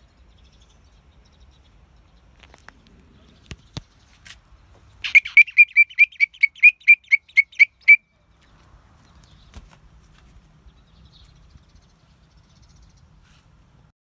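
A bird calling in a quick run of about fifteen loud, evenly spaced high chirps, about five a second, lasting some three seconds from about five seconds in. Shortly before, two sharp clicks.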